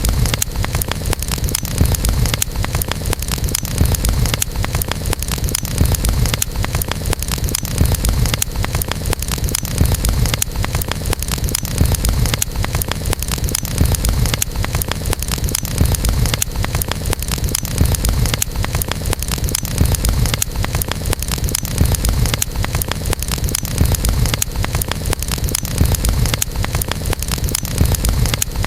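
Wood campfire burning: continuous fine crackling and popping over a steady low rumble of flames.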